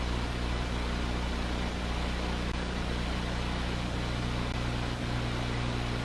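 Helicopter cabin noise: a steady low drone with several even hum tones under a constant hiss.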